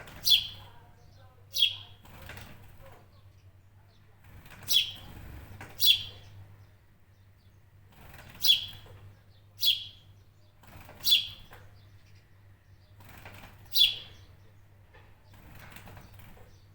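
A bird calling with sharp chirps that sweep steeply downward, eight in all, mostly in pairs about a second apart.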